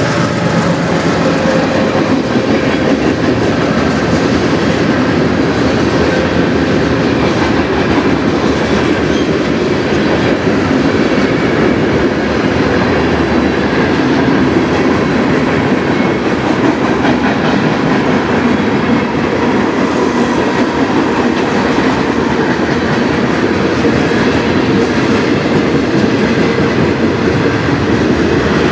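Freight cars of a Canadian National train rolling past, a loud, steady rumble of steel wheels on the rails.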